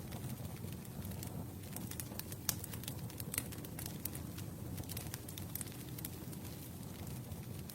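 Campfire burning with a steady low rumble of flames and frequent sharp crackles and pops at irregular intervals.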